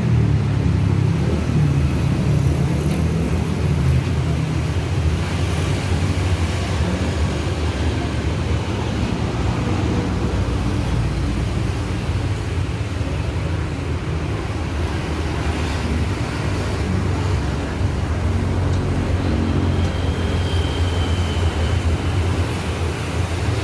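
A steady low rumble of motor-vehicle noise with no clear changes, and a faint high tone briefly near the end.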